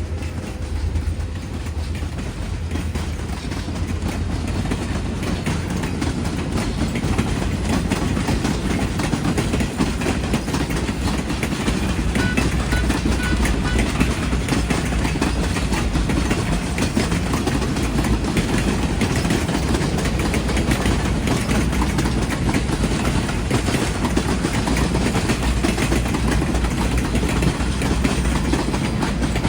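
Train cars rolling past, steel wheels clicking and clattering over the rail joints, with a steady low rumble.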